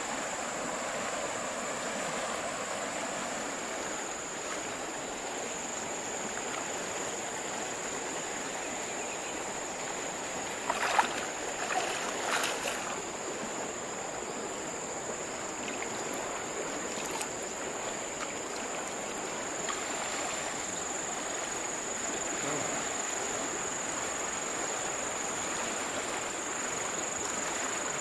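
River water flowing steadily, with a constant high-pitched whine over it. A few sharp knocks or splashes come about halfway through.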